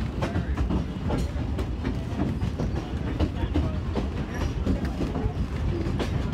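Two-foot narrow-gauge passenger car rolling along the track, heard from on board the open-sided car. A steady low rumble is broken by frequent, irregular clickety-clack clicks and rattles of the wheels on the rails.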